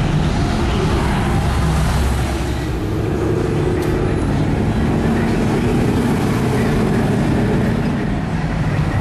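Muscle car engines rumbling loudly, their pitch rising and falling as the cars rev and pull away past the cones.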